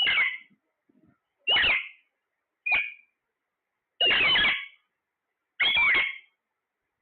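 A parrot giving five loud, shrill calls about a second apart. Each call swoops up and down in pitch.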